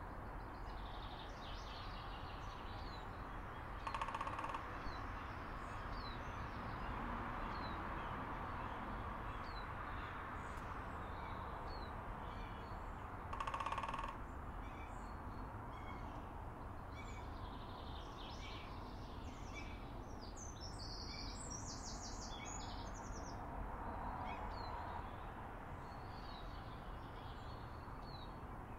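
Small birds chirping intermittently, with a longer burst of birdsong about twenty seconds in, over a steady background hum. Two short, louder noise bursts stand out about four and thirteen and a half seconds in.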